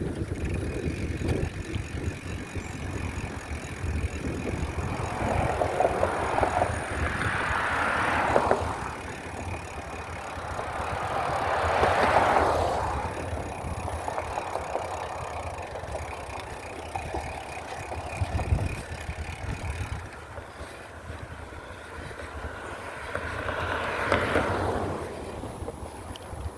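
Steady low rumble of riding a bicycle, heard through the microphone. Three swells of rushing noise build and fade over a few seconds each: one about eight seconds in, one about twelve seconds in and one near the end.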